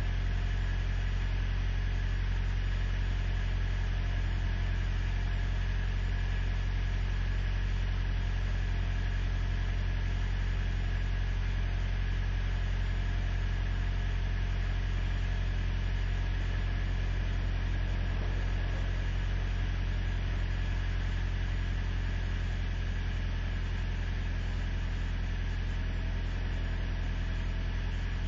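Truck engine idling steadily while cold, after a hard start in sub-zero weather, a little quieter in the last few seconds.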